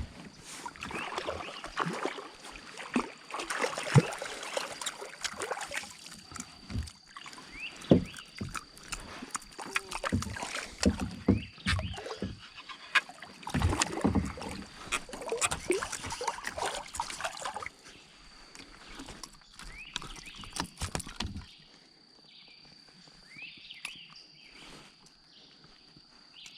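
Knocks and splashing around a kayak as a hooked bass is fought and brought aboard. The commotion dies away about 21 seconds in, leaving a few faint chirps over a thin steady high tone.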